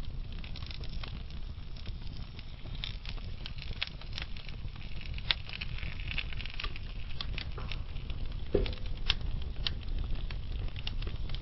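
Wood fire burning in a fireplace: a steady low rumble of flame with scattered sharp crackles and pops, and a short low hiss from the burning wood about two-thirds of the way in.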